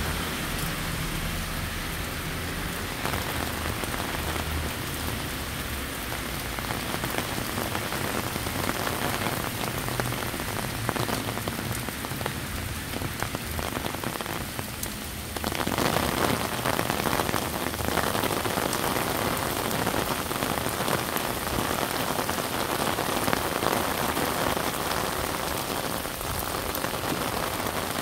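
Torrential rain pouring onto a wet road and pavement: a steady dense hiss of drops splashing on tarmac and standing water. A car's tyres rumble and swish through the water in the first few seconds, and the downpour grows louder about halfway through.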